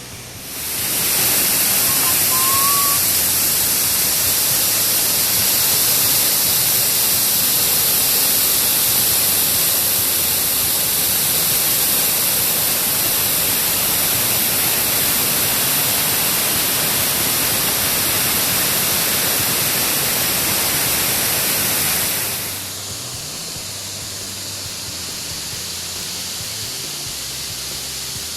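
A loud, steady hiss of rushing noise, strongest in the high range, starting sharply about half a second in and dropping away about 22 seconds in. A short rising chirp is heard about two seconds in.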